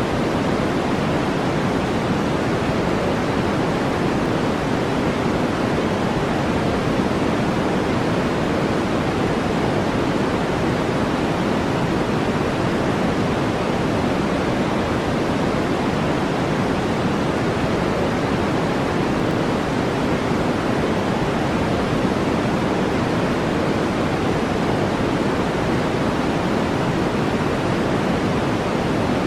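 Steady generated noise track: an even, deep hiss weighted toward the low end, with no change or breaks.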